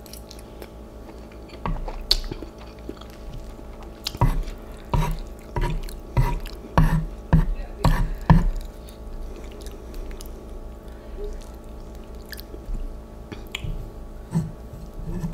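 A person chewing a mouthful of instant noodles, with wet mouth clicks. The chews come in a regular run of about one every half second for several seconds in the middle, then trail off into fainter clicks.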